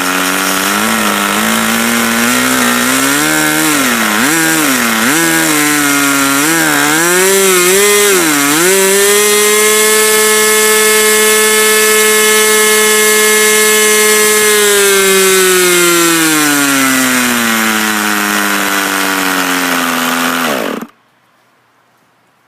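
ASP 40 two-stroke glow model airplane engine running: its speed swings up and down for several seconds, then holds steady at high speed. It slows gradually and then stops suddenly, about 21 seconds in.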